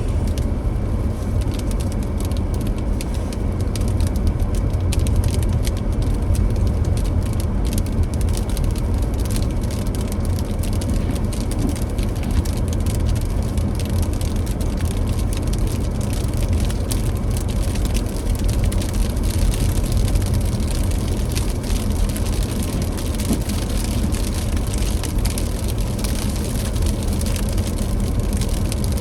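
A car driving on a snowy, slushy road: a steady low road rumble with tyre noise and a fine, continuous patter of small ticks.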